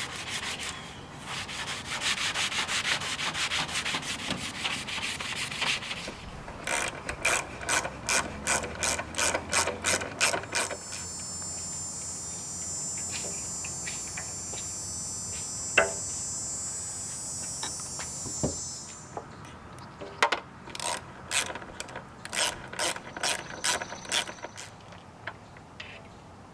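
Hand ratchet wrench clicking as bolts on the Jeep are turned: a fast run of clicks at first, then bursts of rhythmic back-and-forth strokes. A steady high-pitched hum fills several seconds in the middle.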